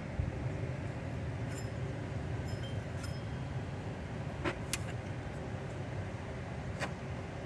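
Ford Explorer engine running with a steady low rumble, with a handful of short, sharp metallic ticks at irregular intervals. The noise comes from the front of the engine, where the pulley and the alternator are bad.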